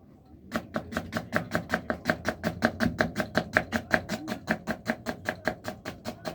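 Kitchen knife chopping quickly on a cutting board, a fast, even run of knocks at about seven a second, starting about half a second in.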